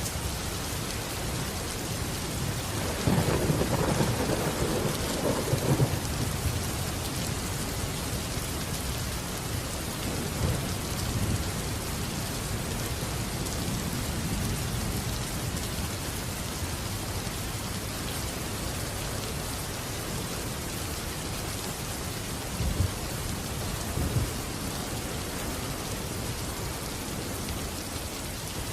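Steady heavy rain falling, with a rumble of thunder rolling in about three seconds in and lasting a few seconds. Two short, sharper cracks stand out near the end.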